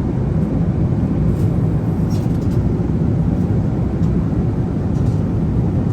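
Steady cabin noise of a jet airliner at cruise: the constant hum of the engines and airflow, with a few faint small clicks.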